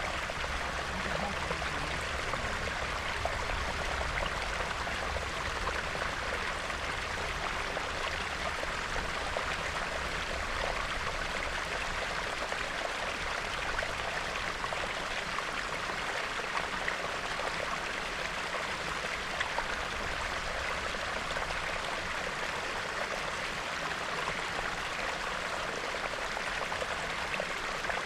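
Small, clear snowmelt stream bubbling steadily.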